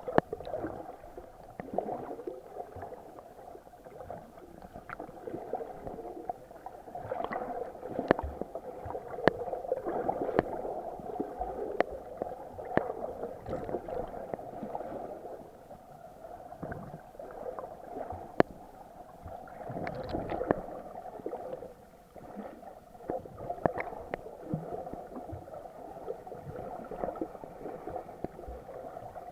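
Muffled underwater sound heard through an action camera's waterproof housing: water moving and gurgling around the camera, with a steady low hum and scattered sharp clicks.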